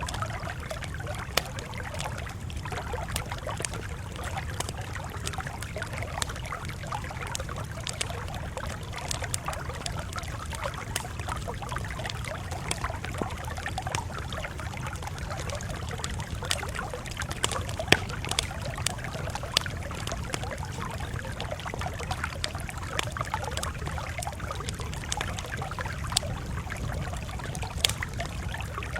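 Campfire crackling steadily, with many scattered sharp pops and snaps over a low rumble; the loudest pop comes a little past halfway.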